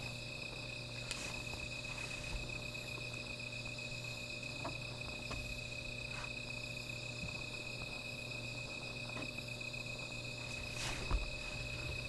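Crickets trilling steadily, several insects sounding together on a few fixed high pitches, with a few faint clicks now and then.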